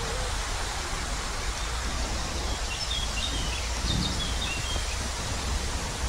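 Steady outdoor background noise with a low rumble, and a small songbird giving a short run of high chirps in the middle.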